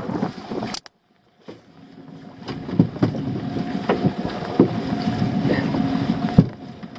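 A dinghy's small outboard motor running steadily, with wind buffeting the microphone and occasional knocks. The sound drops out completely for about half a second just under a second in.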